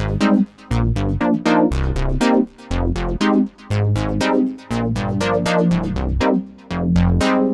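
Korg Minilogue XD analog/digital polyphonic synthesizer playing a factory preset dry, without effects: a quick pattern of short, bright notes that fade fast, over a bass line that stops and starts.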